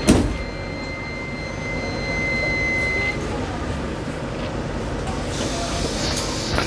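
Steady rumble of a moving vehicle, with a sharp knock right at the start and a thin high squeal lasting about three seconds.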